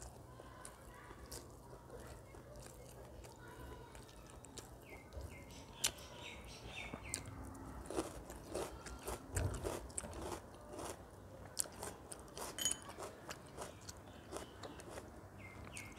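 Close-up eating sounds: chewing and crunching a mouthful of rice with raw onion, with many wet mouth clicks and smacks that grow busier after the first few seconds.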